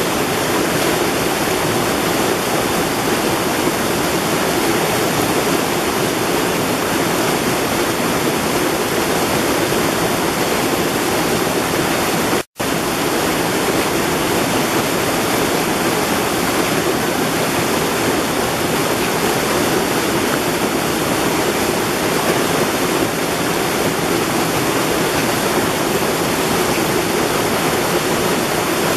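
Mountain valley stream rushing steadily over rocks. The sound cuts out completely for an instant about twelve and a half seconds in, then resumes unchanged.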